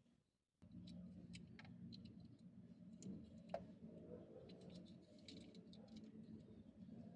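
Faint clicks and light crinkles from diecast toy packaging being handled, over a low steady hum that starts suddenly about half a second in.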